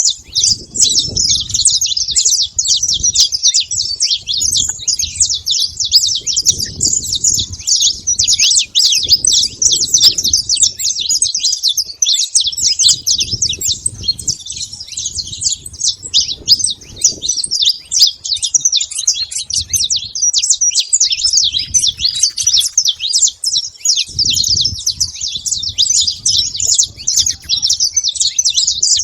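A flock of saffron finches chirping and calling all at once, a dense, unbroken chatter of short high notes, with bursts of low rumble underneath coming and going.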